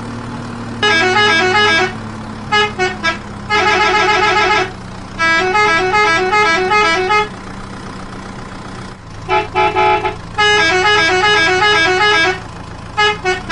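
Electronic toy-vehicle horn sounds: bursts of rapid, melodic beeping honks about a second long, with short groups of quick toots between them, over a steady low hum.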